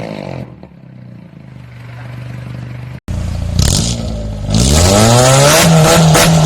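Engine exhaust through an HKS aftermarket muffler: a rev falls back to a steady idle, then after a sudden cut the engine is blipped and revved up, its pitch climbing and holding high.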